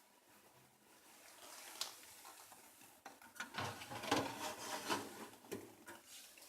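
Plastic fittings of a mini fridge being handled: a single sharp click just before the second second, then a run of clattering, knocking and rattling that dies away near the end.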